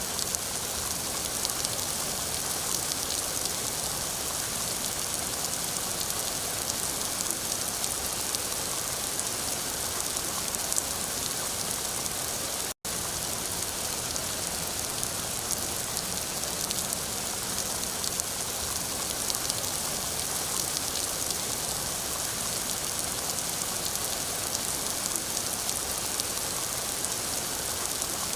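Steady rain falling on a surface: a dense even hiss with many fine drop ticks, cutting out for an instant about halfway through.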